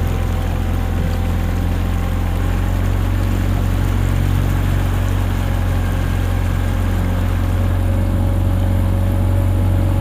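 Outboard motor of an inflatable boat running at a steady low hum under way.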